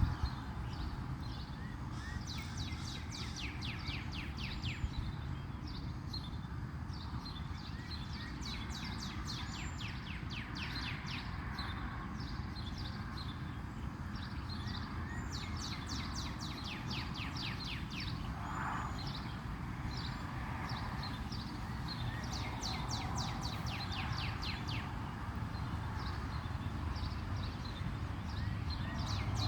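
Small birds chirping in rapid repeated trills, with a few short high whistled notes among them, over a steady low background rumble.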